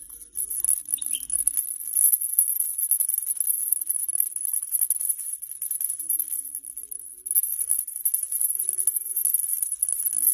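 A maraca shaken rapidly and continuously, a dense high rattle of beads that eases off briefly about seven seconds in and then picks up hard again.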